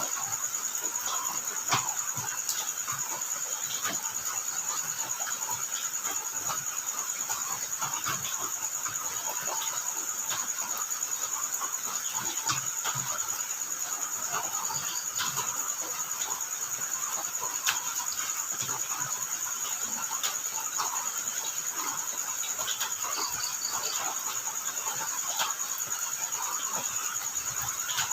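Crickets trilling continuously at a steady high pitch, with scattered light taps of rain drops.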